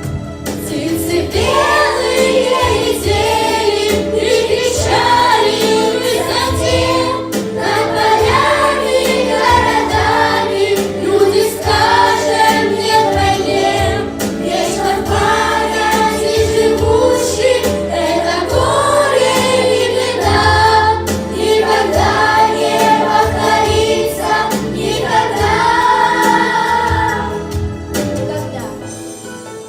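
A song sung by a group of voices together, a choir, over instrumental accompaniment. The singing stops shortly before the end.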